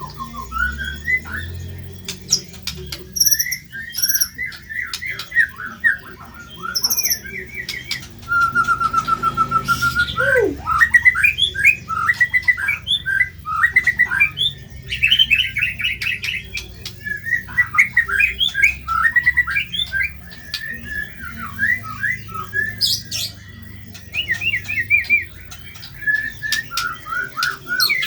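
White-rumped shama (murai batu) singing a busy song of rapid chirps, harsh squawk-like phrases and trills, with a long, even trilled note about eight seconds in.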